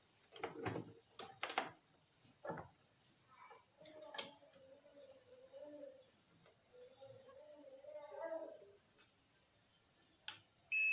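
Cricket chirping steadily, a high pulsed trill of about four to five chirps a second, with a few light clicks of handling on the workbench. At the very end a steady multimeter continuity beep sets in.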